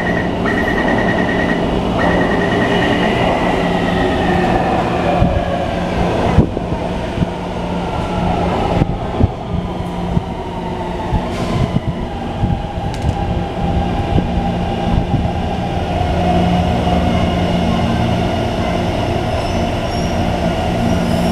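Train running, with several whining tones that glide down in pitch over the first few seconds and shift again later, over a steady low hum and a few scattered knocks.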